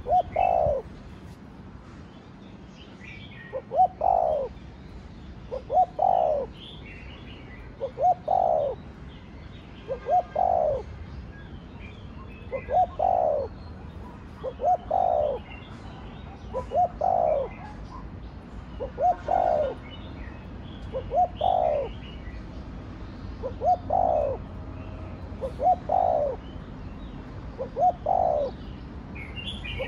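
Spotted dove cooing, repeating its call phrase about every two seconds. Each phrase is a couple of short notes and then a longer, falling coo. Faint chirps of small birds come in between.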